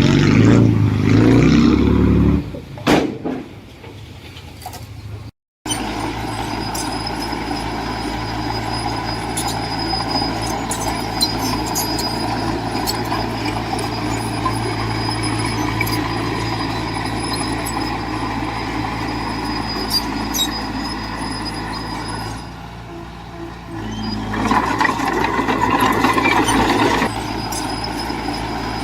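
Heavy diesel engine of earthmoving machinery running steadily under load, with scattered metallic clanks. It is loudest in the first two seconds and again from about 24 to 27 seconds in, and drops out completely for a moment about five seconds in.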